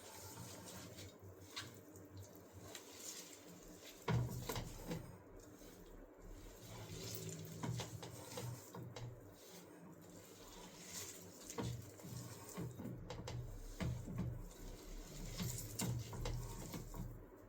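Faint, uneven wet squishing and scraping of a thick grated-vegetable and besan mixture being kneaded by hand in a bowl, with scattered small clicks and a sharper knock about four seconds in.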